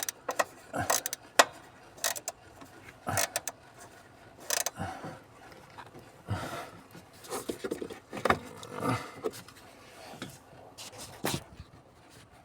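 Scattered clicks, taps and scrapes of hand tools and small parts being handled while taking apart a Scania truck's gas pedal module.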